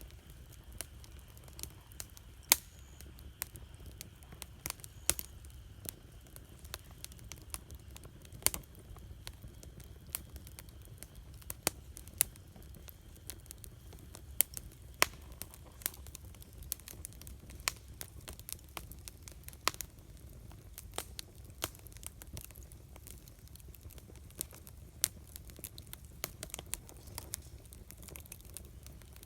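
Wood campfire crackling, with irregular sharp pops and snaps, a few much louder than the rest, over a steady low rumble.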